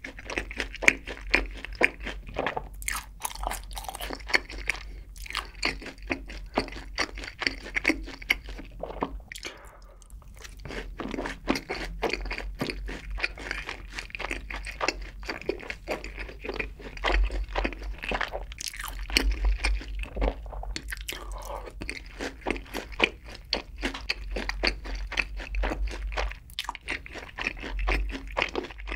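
Close-miked chewing of sauce-coated fried chicken, a dense run of crunchy, crackly bites with a brief lull about ten seconds in.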